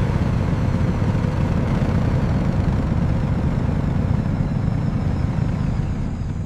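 Aircraft engine running with a steady low rumble.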